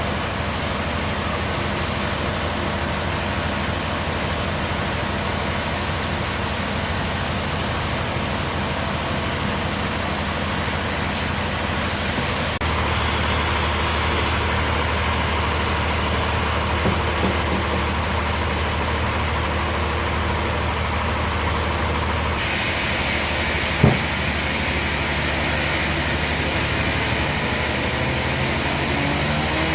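Bandsaw sawmill running with a steady low machine hum. About halfway through its hum gets heavier, and later a higher hiss joins it. There is a single sharp knock shortly after, and a pitch rises near the end.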